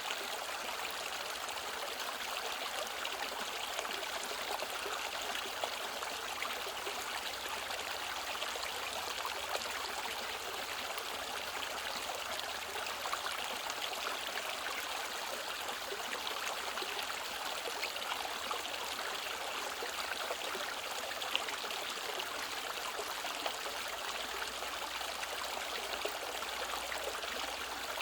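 Mountain valley stream flowing steadily over rocks, a continuous rushing with small trickling splashes.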